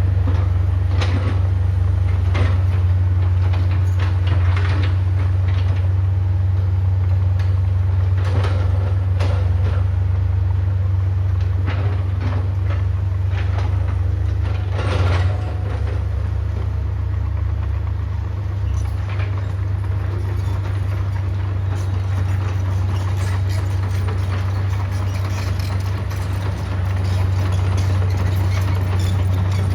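Heavy diesel construction machine running steadily, with scattered clanks and scrapes of metal working material in the first half.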